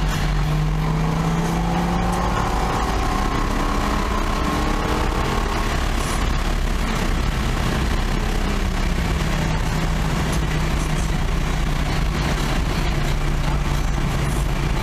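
Dodge Viper V10 engine pulling hard under acceleration, its pitch climbing for several seconds, then dropping back in the second half as the revs fall. Heard from inside the cabin over road and wind noise.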